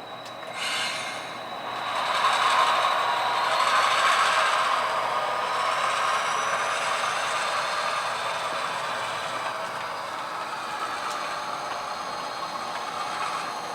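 HO scale model train rolling on the layout track, a steady whirring of motor and gears with the wheels rattling over the rails, as the locomotive shoves cars to couple them.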